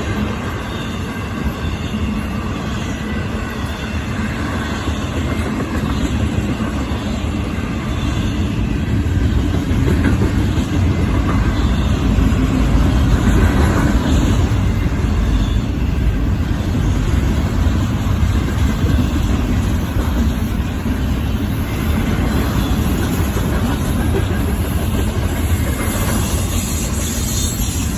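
Florida East Coast Railway double-stack container freight train rolling past: a steady rumble and clatter of steel wheels on the rails, growing louder about ten seconds in.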